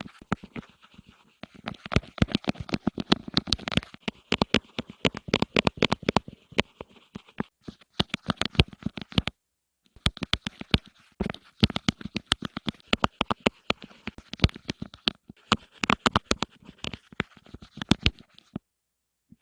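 Rapid close-miked ASMR tapping and scratching, many quick sharp taps a second, which stops for about half a second around nine and a half seconds in and again near the end.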